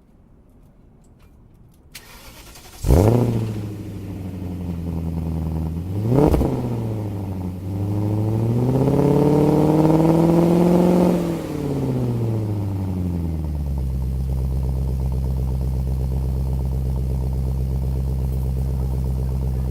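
BMW 540i with an LLTek aftermarket exhaust cranked and started: the engine catches with a sharp flare about three seconds in and settles. It gets a quick blip of the throttle, then a slower rev held for a few seconds, and drops back to a steady idle.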